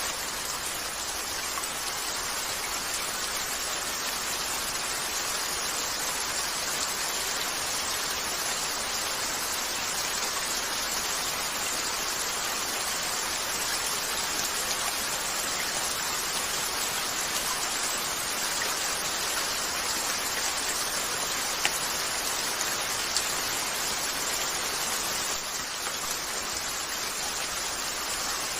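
Steady rain falling on a window, a dense even hiss, with two sharp crackling pops from a wood fire about three-quarters of the way through, a second and a half apart.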